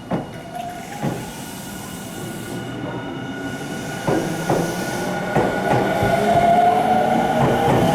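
Nankai 50000 series Rapi:t electric train pulling away from the station, its motor whine slowly rising in pitch as it gathers speed. Wheels click over rail joints now and then, and the train grows louder.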